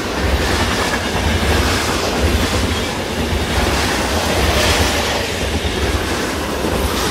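A train running on rails: a loud, steady rumble with rail and wheel noise.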